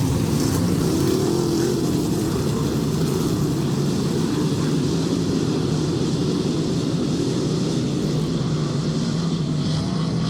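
A field of dirt modified race cars with their engines running together in a steady drone.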